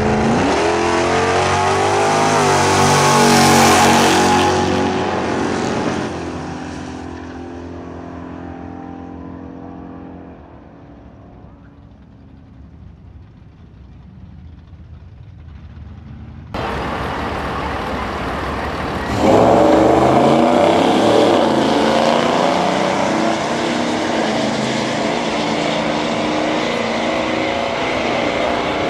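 Drag-racing car engines accelerating hard, the engine note climbing for the first few seconds and then fading away into the distance. After an abrupt cut about midway, loud engine noise starts again and swells a few seconds later.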